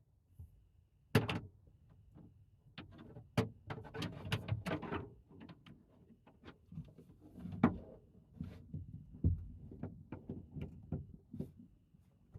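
Irregular clicks, taps and knocks from handling a tiny 12-volt mini fridge and its plug at close range. The loudest is a sharp knock about a second in, with another a little past the middle.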